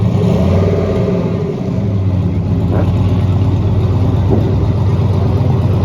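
A car engine running steadily with a low, even note.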